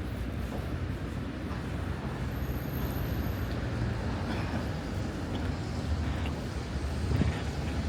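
Steady low rumble of city road traffic, with a short high whine about two and a half seconds in.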